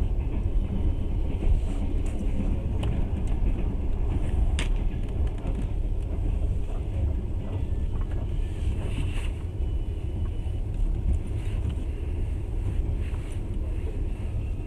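Passenger train running, heard from inside the carriage: a steady low rumble with a few faint clicks and rattles scattered through it.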